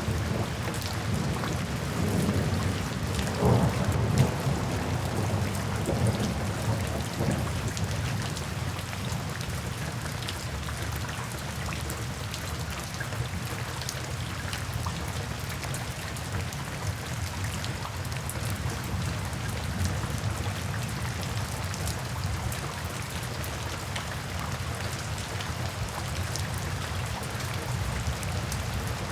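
Steady rain falling on a surface, with many small drop hits. A low rumble of thunder swells about two seconds in, peaks around four seconds, and fades out after about seven seconds, leaving the rain alone.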